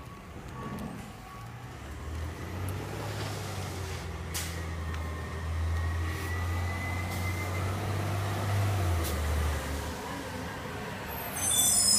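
Garbage truck's diesel engine running with a low drone that grows louder, then eases off, followed near the end by loud high-pitched brake squeal as the truck pulls to a stop.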